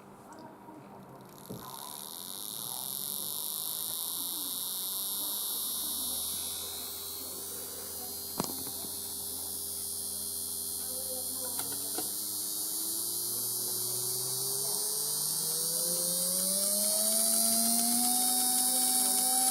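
Steady electrical mains hum with a strong high hiss. From about halfway a whine rises steadily in pitch until the end, like a small electric motor speeding up.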